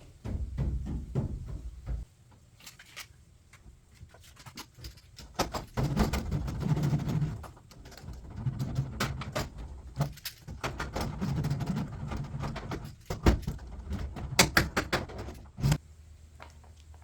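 Hands working sound-deadening sheets onto the inside metal panels of a van: irregular rubbing and rustling in uneven stretches, with many sharp clicks and knocks.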